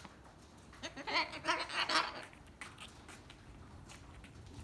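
A cockatoo giving a brief, wavering call about a second in, followed by a few faint clicks.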